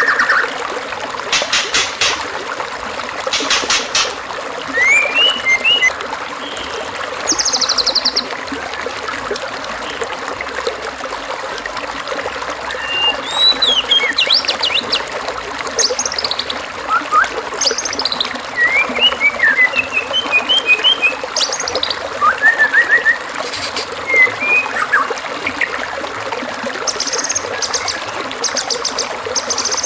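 Assorted songbird calls, short rising and falling whistles and chirps with a few fast rattling trills, over a steady trickle of running water. This is a masteran recording of songs for a white-rumped shama to copy.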